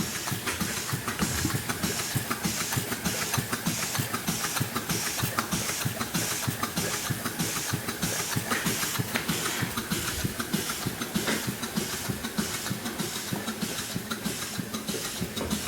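GVG two-cylinder, half-horsepower steam engine running steadily on about 50 pounds of boiler pressure, with an even, rapid beat.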